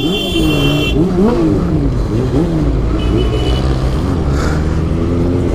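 Honda CB400's inline-four engine through a Two Brothers aftermarket exhaust, revving up and dropping back several times while riding.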